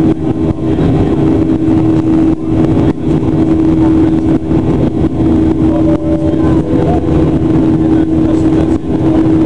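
Steady, loud engine drone and airflow rumble inside the cabin of a Boeing 737-800 from its CFM56-7B turbofan engines, with one strong steady hum that drops out briefly near the end.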